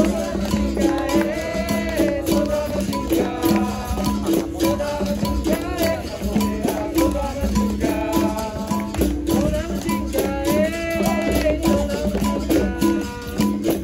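Capoeira roda music: berimbau playing a repeating rhythm with its caxixi shaker and hand percussion, under voices singing.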